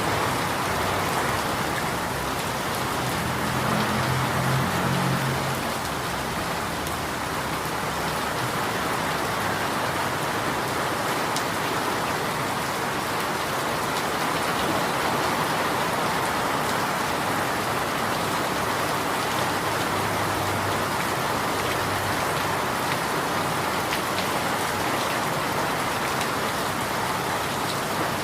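Steady rain falling, an even hiss that does not let up, with a faint low hum a few seconds in and again briefly later.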